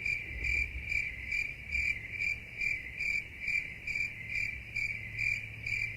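Cricket chirping: a high, steady trill that pulses about twice a second, over a faint low hum.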